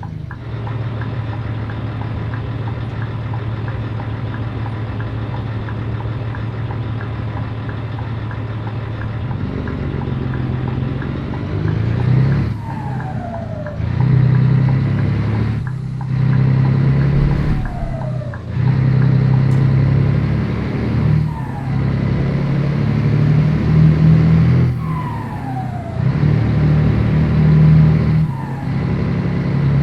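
Scania 113 truck's turbocharged straight-six diesel running at a steady note, then from about twelve seconds in pulling through a run of gear changes: the engine note drops briefly at each shift, every two seconds or so, and climbs again, with a falling whistle at several of the shifts.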